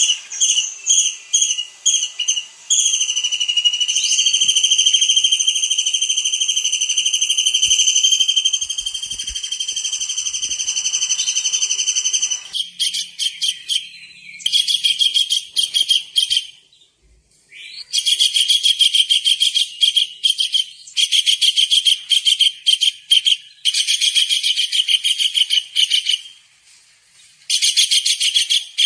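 Tengkek udang (small kingfisher) calling hard: a few short, high whistled notes, then one long held shrill whistle, then bursts of rapid, high trilled notes in several runs with short pauses between them.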